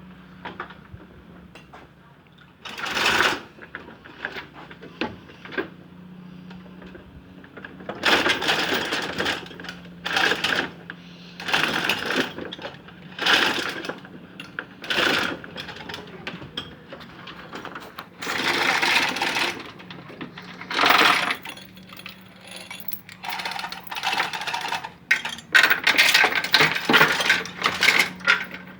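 Metal clinking and rattling in irregular bursts of a second or so, over a faint steady hum.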